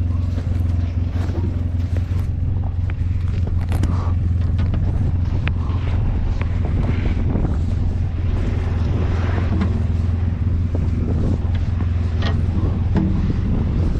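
Engine of a vehicle plowing snow, running steadily, with scattered knocks and clicks.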